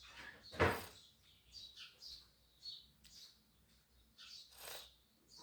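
Short high bird-like chirps, scattered several a second, with a loud noisy burst just under a second in and a second, weaker burst near the end.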